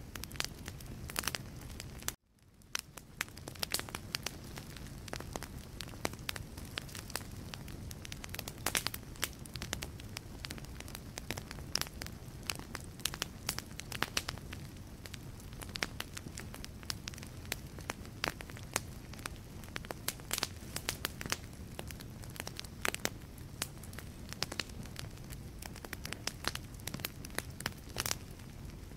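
Wood fire crackling in a fireplace: irregular sharp pops and snaps over a low, steady rumble of the flames. The sound drops out for a moment about two seconds in, then fades back up.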